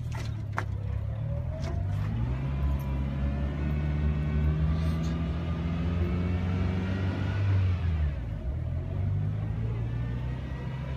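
Car engine running under load as the vehicle drives along, its note rising slowly for several seconds, then dropping sharply about eight seconds in before holding steady.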